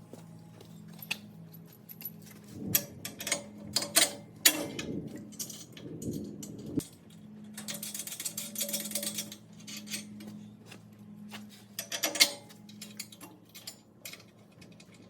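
Hand tools and steel hardware clinking and clanking as bolts and brackets are fitted to a tractor's backhoe subframe, with a rasping burst about eight seconds in, over a steady low hum.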